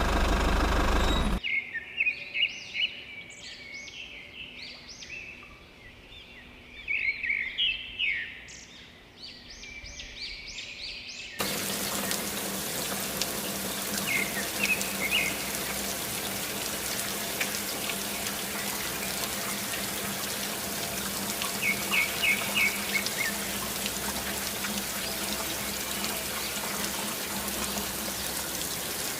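Birds chirping over a quiet background. About eleven seconds in, a steady rush of water starts, with a low steady hum under it and a few more bird chirps.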